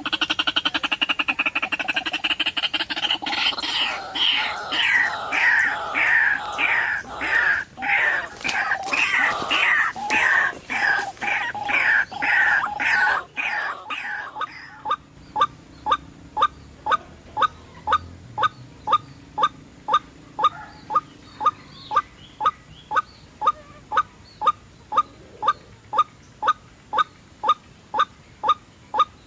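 White-breasted waterhen calls: about fourteen seconds of harsh, rapidly repeated falling calls, then a monotonous series of short single notes, evenly spaced at about two a second.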